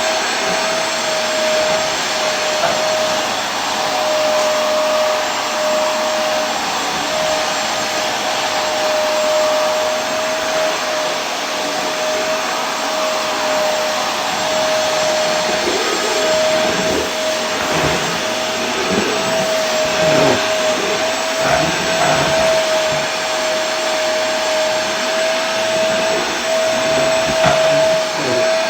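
Vacuum cleaner running steadily: an even rushing noise with a constant whine. From about halfway through, uneven low rumbles come and go underneath.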